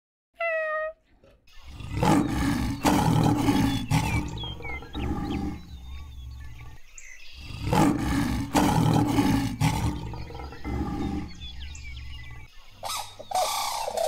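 A short falling meow just after the start, then a large animal roaring in two long rough stretches with a brief break between them. A different, higher animal call begins near the end.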